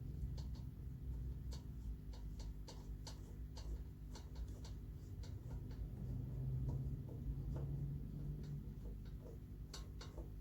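Scattered light metallic clicks and taps as the screws holding a ceiling fan blade are undone by hand, irregular rather than rhythmic, over a steady low hum.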